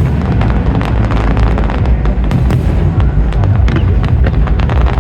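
Aerial fireworks going off in rapid succession: many sharp cracks and bangs over a continuous deep rumble of booming shells.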